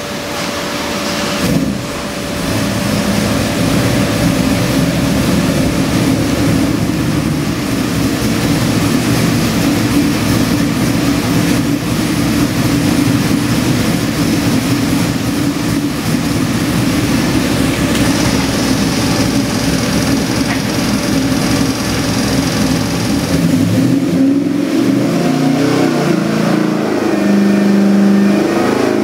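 LS7 427 V8 crate engine with Holley fuel injection, running on an engine dyno. It idles steadily at about 1,000 rpm for most of the time, then near the end the revs climb as a dyno pull begins.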